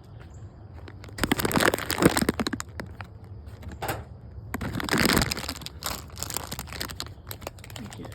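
Bursts of rustling and crinkling with crackly clicks, as a handful of peanuts is scooped out of a bag. There are two main bursts: one about a second in, and a second about halfway through.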